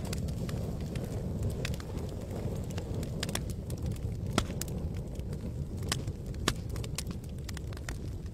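Wood campfire burning: irregular sharp crackles and pops over a steady low rumble, with a few louder snaps in the middle.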